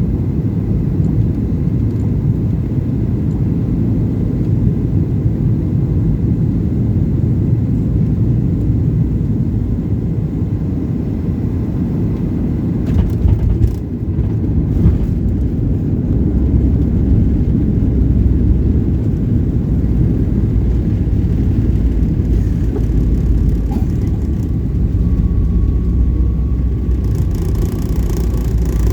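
Boeing 737-800 cabin noise: the steady low rumble of the engines and airflow heard from a passenger seat, with a few short knocks about halfway through and a hiss building near the end.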